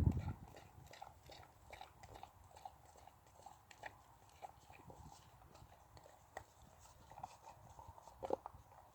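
Dog licking and chewing at a cup of whipped cream: faint, irregular wet smacks and small clicks, with a couple of slightly louder ones near the end.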